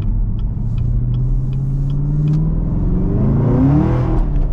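Supercharged 6.2-litre V8 of a Chevrolet Camaro ZL1 with a six-speed manual accelerating, its pitch rising steadily, then briefly rising and falling near the end around a gear change. A steady light ticking, about twice a second, runs through the first half.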